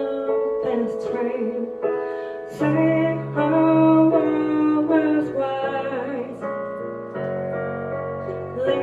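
Solo piano playing sustained chords, with a woman's singing voice heard faintly at times.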